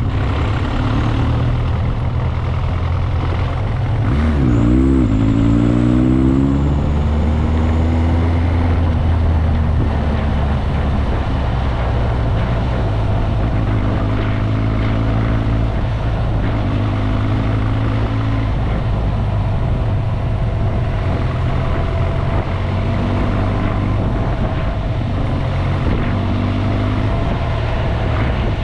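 Motorcycle engine running while under way, its revs swinging up and back down about four seconds in, then holding fairly steady with a few smaller rises, over a steady rushing noise.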